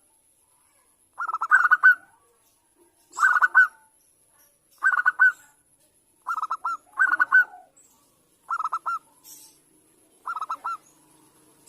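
Zebra dove (perkutut, Bangkok song type) cooing in short phrases of quick, bubbling staccato notes. There are about seven phrases, each roughly half a second long, with a pause of a second or so between them.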